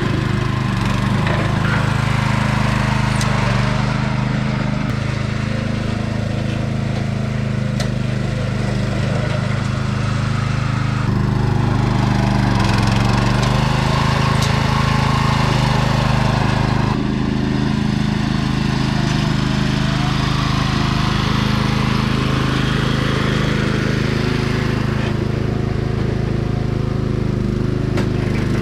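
Sears 10XL garden tractor's engine running steadily while pushing dirt, its pitch shifting slightly a couple of times, with a few faint clicks.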